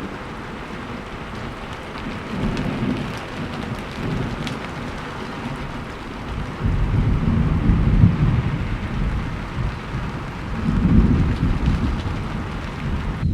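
Steady heavy rain hissing, with thunder rumbling low in rolling swells, the loudest roll building about seven seconds in and another near eleven seconds.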